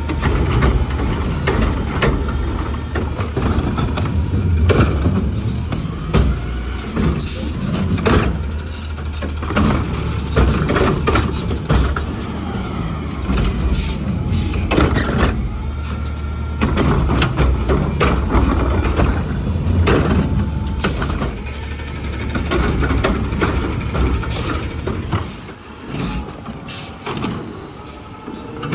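Garbage truck at work: its engine runs steadily low, with frequent sharp clanks and knocks. It gets quieter near the end.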